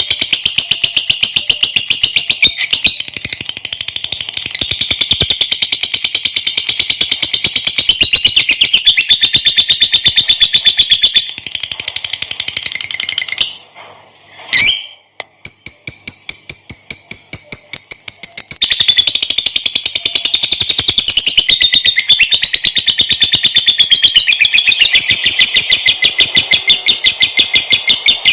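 Lovebird giving a long 'ngekek': a rapid, high-pitched chattering trill, nearly unbroken. It cuts off for about two seconds a little before halfway, then resumes.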